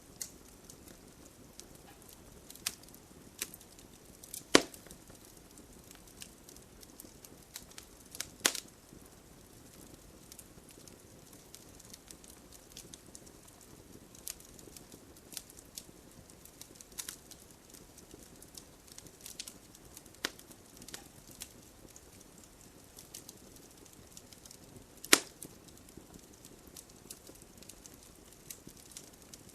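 Campfire crackling: a low steady hiss of burning wood with frequent small sharp snaps, and three loud pops about four seconds in, eight seconds in and near the end.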